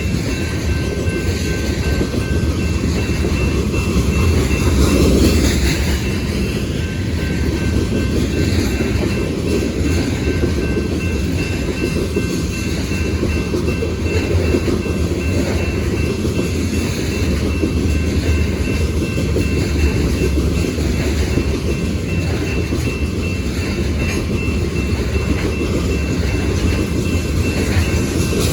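Freight train cars rolling past, a steady loud rumble of steel wheels on the rails that keeps up throughout.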